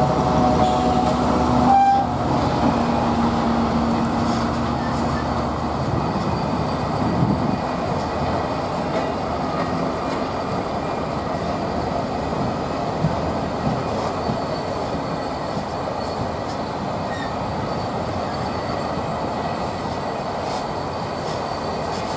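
A British Rail Class 70 diesel locomotive's engine hums steadily as it passes, with a short louder tone about two seconds in. Then a long train of ballast wagons rolls by with a continuous rumble of wheels on rail and occasional clicks, slowly fading.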